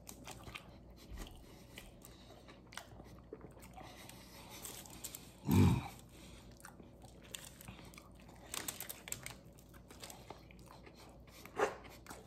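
A man chewing a big mouthful of vegetarian burrito: soft chewing with small scattered clicks, and one short, much louder mouth sound about halfway through.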